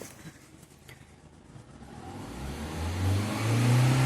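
Lada Granta's VAZ-11182 eight-valve four-cylinder engine, running on LPG, idles faintly and then is revved hard about two seconds in, the revs climbing and peaking near the end. This is a free-revving throttle test done while checking the ignition for misfires.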